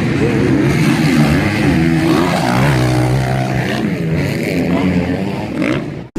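Motocross motorcycle engines running and revving, their pitch rising and falling again and again as the bikes accelerate and shift. The sound cuts off abruptly near the end.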